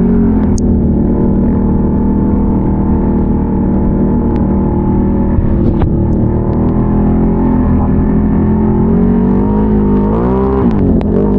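A Can-Am Renegade ATV's V-twin engine running at fairly steady revs while riding. Near the end the revs drop and then climb again as the throttle is eased off and reopened.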